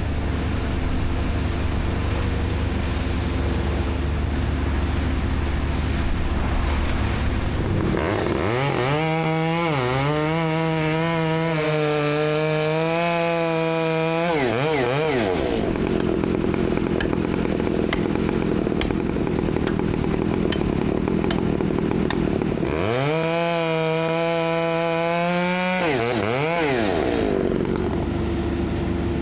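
Gas chainsaw throttled up to full speed twice, first about eight seconds in for some six seconds and again near the end for about three, dropping back between. A steady low engine hum runs underneath.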